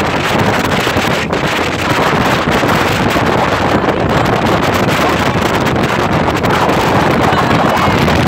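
Loud, steady wind rushing over the microphone on a motorboat running at speed, with the boat's engine and water noise mixed underneath.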